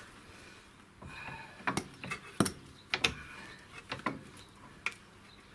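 Scattered short metal clicks and knocks, about seven of them, as suspension parts are handled while the front lower control arm's ball-joint pin is worked into place.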